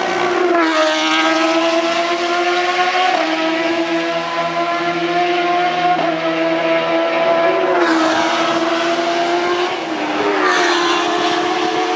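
750cc racing motorcycle engine running hard at high revs, its pitch held high and dipping briefly about four times before climbing again.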